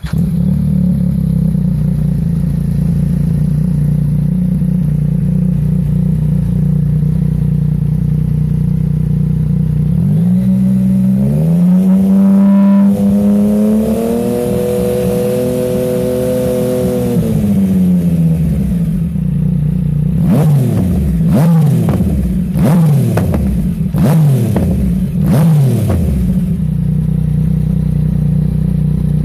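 Yamaha MT-09's three-cylinder engine breathing through an aftermarket stainless exhaust: idling steadily for about ten seconds, then revved up and held high for several seconds before dropping back to idle. Near the end come about six quick throttle blips, each rising and falling in pitch, before it settles to idle again.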